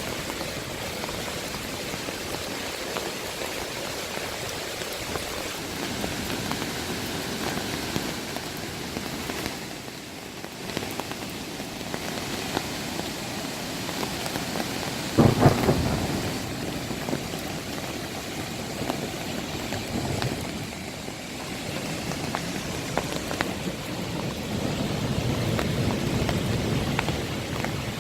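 Heavy rain pouring steadily, with a sudden loud low burst about halfway through and a low rumble building near the end.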